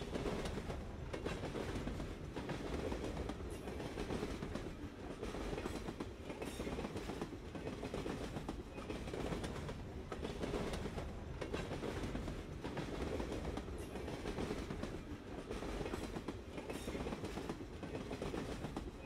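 Train rolling along the track: a steady rumble with repeated clicks of wheels over the rails.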